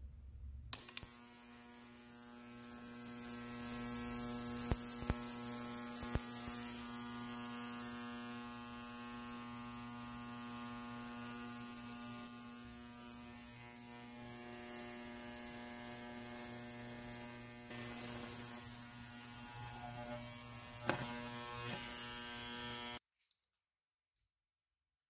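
An electric power tool's motor running at a steady speed for about twenty seconds, a constant hum with a few sharp clicks, then cutting off abruptly near the end.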